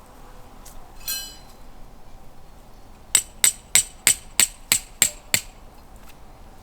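Hammer striking metal: eight quick, even blows, about three a second, each with a bright metallic ring, preceded a couple of seconds earlier by a single metallic clink.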